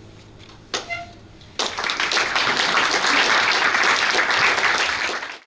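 Audience applause starting about a second and a half in, after the piano's last notes fade out and a short knock, then cut off abruptly near the end.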